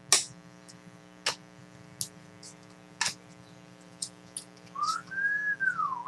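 Trading cards being handled, with a short crisp swish about once a second, then from near the end a person whistling a few notes that rise and fall.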